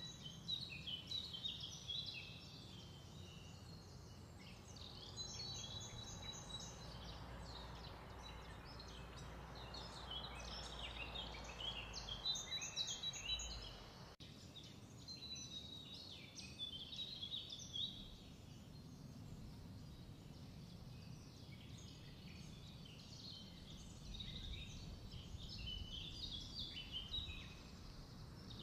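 Small birds chirping and twittering quietly, their calls coming in clusters with short pauses, over a low steady background hum.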